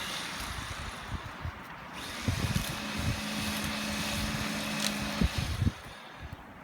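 A small motor's steady low hum, coming in about two and a half seconds in and stopping a little after five seconds, over a steady hiss and scattered low thumps.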